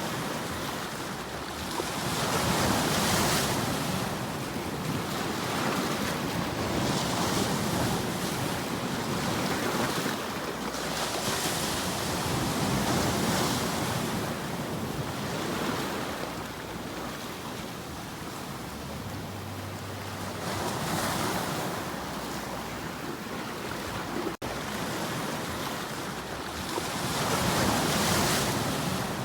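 Ocean waves washing on a shore: a steady rush of surf that swells and falls back every few seconds. A split-second dropout about 24 seconds in.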